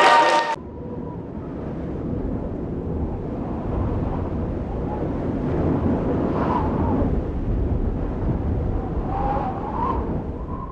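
Dance music cuts off about half a second in. What follows is a low, steady rumble of venue noise with faint distant voices.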